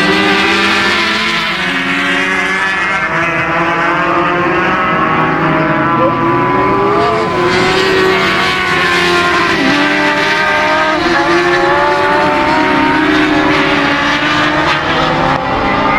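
Racing motorcycle engines at full throttle, several at once, their pitch climbing and dropping again and again as the riders accelerate, shift gear and brake.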